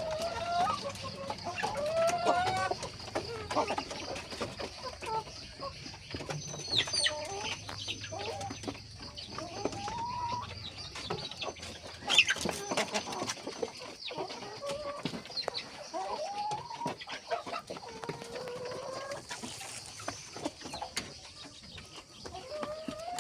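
Local chickens clucking and calling repeatedly, many short calls overlapping, over a steady high-pitched hum. A single sharp click about midway through is the loudest sound.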